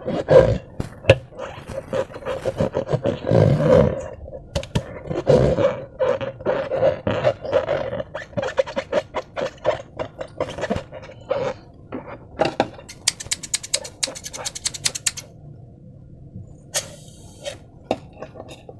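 Close-up handling of slime and rubber balloons: rubber creaking and groaning as it is stretched and rubbed, with wet squelches and many small clicks and crackles. Later the sounds thin out to scattered clicks, with a fast run of ticks about two-thirds of the way through.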